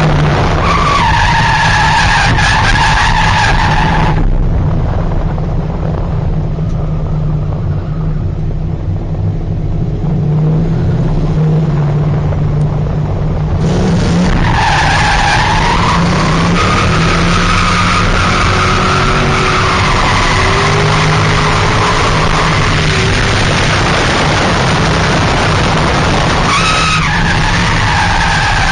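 2000 Ford Mustang drift car sliding with its engine at high revs and its tyres squealing. The squeal drops away about four seconds in, leaving only the engine for several seconds. It comes back partway through and carries on with the pitch wavering.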